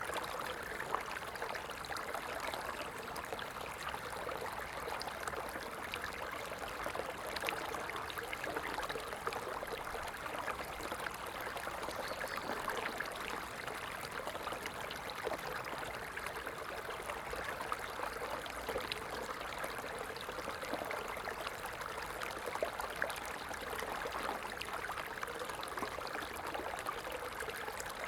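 A stream running steadily over stones, a constant babble and trickle of water with many small splashes.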